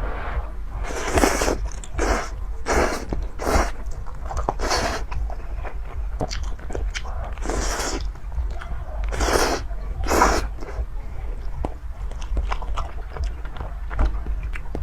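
Close-miked eating of malatang: steady chewing and biting clicks, broken by about eight louder hissy sounds of roughly half a second each.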